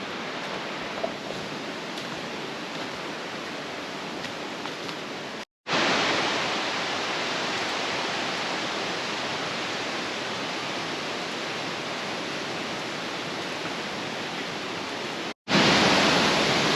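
Steady rush of creek water. It drops out abruptly twice, and the stretch between the dropouts is louder.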